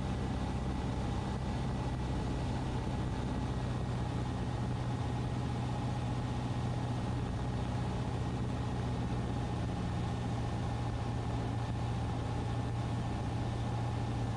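Cessna 150's four-cylinder Continental O-200 engine and propeller heard from inside the cabin, a steady unchanging drone in flight.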